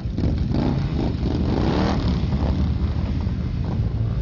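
Many motorcycle engines running and revving together, loud and continuous, with revs rising and falling about a second and a half in.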